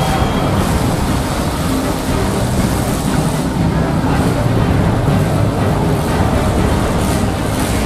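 Demolition derby cars' engines running together in a loud, steady din as the cars move about on the dirt.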